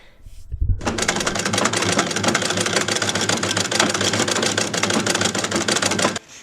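1913 Singer treadle sewing machine running steadily under foot power, unthreaded, with a fast, even clatter of the needle mechanism. It starts about a second in and stops abruptly near the end.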